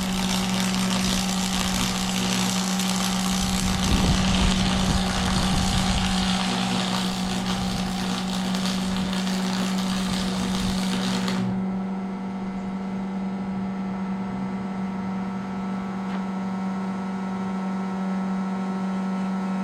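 Welding arc hissing and crackling over a steady electrical hum, the arc cutting off abruptly a little past halfway through and leaving only the hum.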